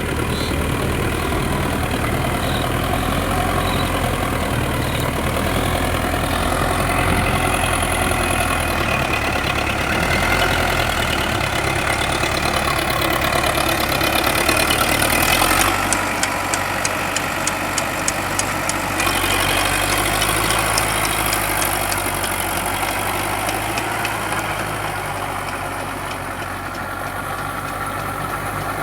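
Sonalika DI 750 tractor's diesel engine running steadily. A rapid ticking joins in for a few seconds past the middle.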